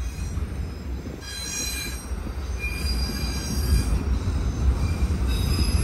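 Steel wheels of a passing freight train's auto rack cars squealing, high-pitched tones that come and go in several stretches over the low rumble of the cars rolling by.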